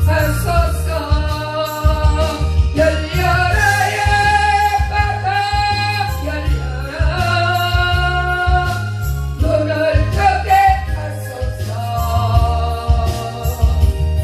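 Korean gospel special song: a voice singing a melody over instrumental accompaniment with a strong, pulsing bass.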